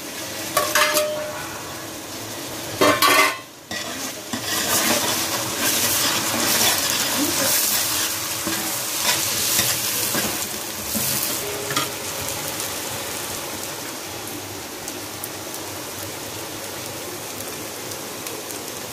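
Chopped tomatoes frying in hot oil and browned onions in a large aluminium pot, sizzling steadily as a metal spoon stirs them. A few metal clatters from the bowl and spoon against the pot come in the first few seconds. The sizzle is loudest from about four seconds in and eases after about twelve seconds.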